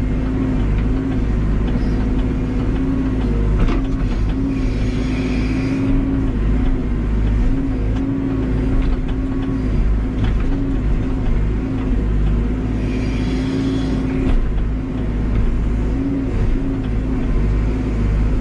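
Cat backhoe's diesel engine running under load, its pitch dipping and recovering as the machine works. A higher whine comes in twice, each time for a second or two.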